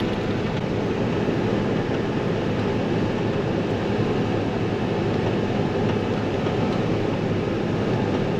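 Combine harvester running steadily at full throttle, its threshing and cleaning fan running for cutting oats.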